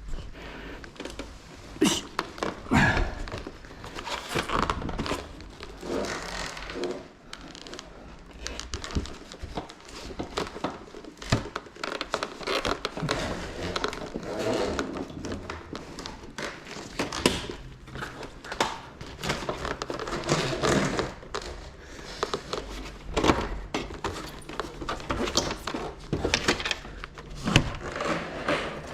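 Irregular handling noises of air-conditioner installation work: knocks, clunks and clicks mixed with rustling and crinkling of plastic wrap and insulation as the indoor unit and its bundled piping are handled, in a small room.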